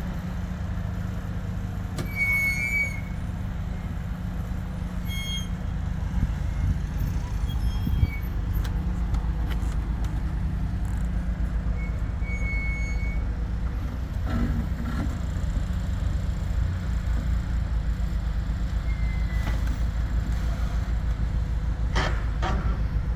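Engine idling steadily, with a few short high-pitched squeals every few seconds and some clicks near the end.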